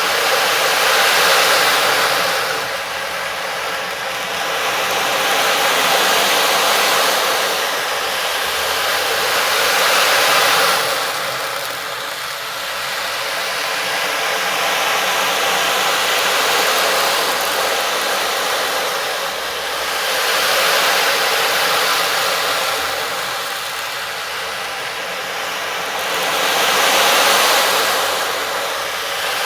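A rushing, hissing noise that swells and fades slowly every four to six seconds, like waves washing in and out.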